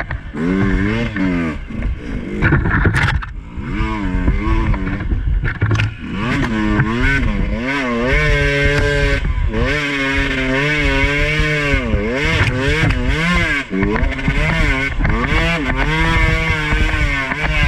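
Two-stroke dirt bike engine revving up and down over and over as the throttle is worked on a slippery trail, with a few knocks and clatters about three seconds in.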